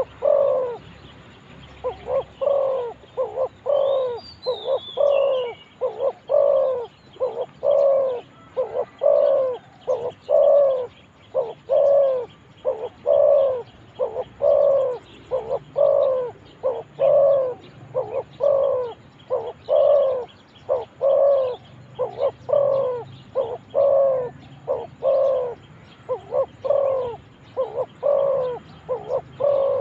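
Spotted dove cooing over and over, a steady run of deep, evenly spaced coo notes, a couple a second. A short high twitter from a small bird cuts in about four seconds in.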